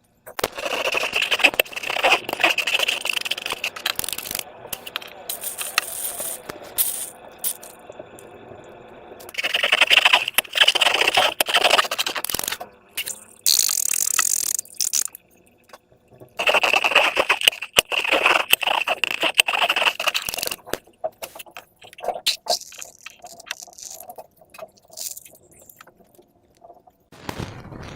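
Hands squishing and stretching slime: sticky crackling and small clicks in three longer spells, with quieter handling between them.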